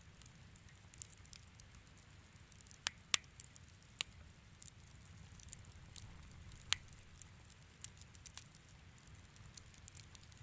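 Fireplace fire crackling, with scattered sharp pops, a few louder ones about 3 and 7 seconds in, over a steady low rumble.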